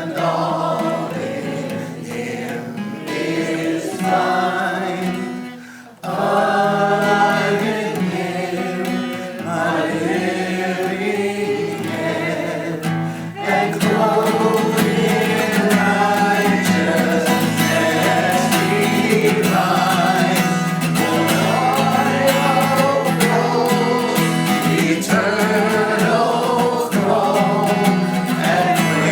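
Worship music: a group of voices singing with guitar accompaniment. The sound dips briefly about six seconds in and becomes fuller from about halfway through.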